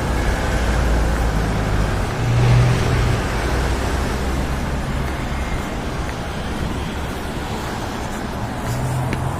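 Road traffic: a steady rumble of passing cars, with an engine note swelling briefly about two seconds in and again near the end while the overall noise slowly fades.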